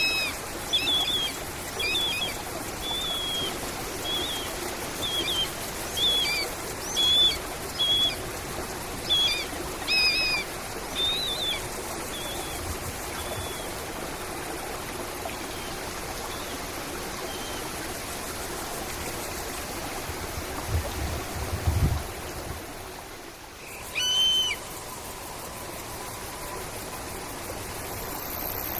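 Birds calling with short, repeated chirps over a steady background of running water. The chirps are frequent for the first dozen seconds, then thin out to a single call later on, with a brief low rumble a little after 20 seconds.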